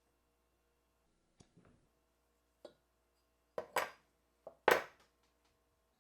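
A series of short knocks and clicks of hard objects being handled, several in close pairs, the loudest pair about four and a half seconds in, over a faint steady hum.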